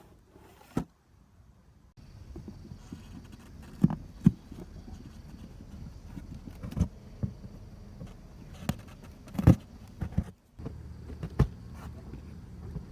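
Scattered sharp knocks and taps over a steady low rumble of background noise, with a couple of brief drops to near silence.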